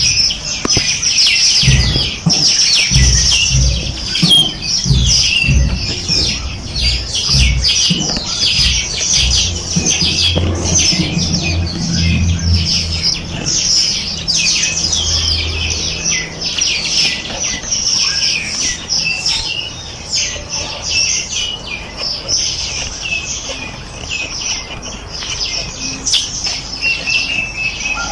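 A dense chorus of many small birds chirping with quick, high-pitched calls, overlapping without a break. Low rumbling thumps sound underneath through the first half.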